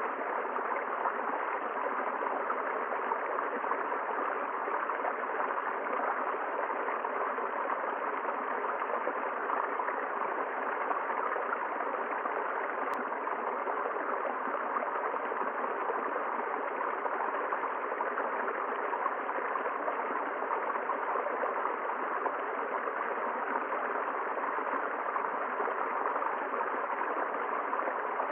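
A river or stream flowing steadily over rocks, an unbroken rushing of water.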